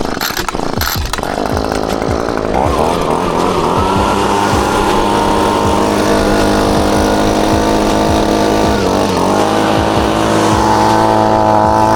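A motor running steadily and loudly, used to drive off the excess water after a wash. Its pitch climbs about two and a half seconds in, dips briefly near nine seconds and climbs again.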